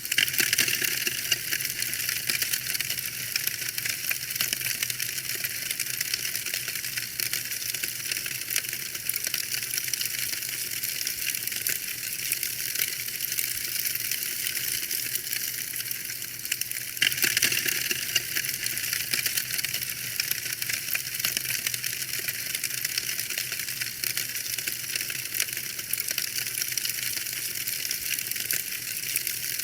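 Wood fire burning in a fireplace, crackling steadily with dense small pops and snaps, briefly brighter about seventeen seconds in.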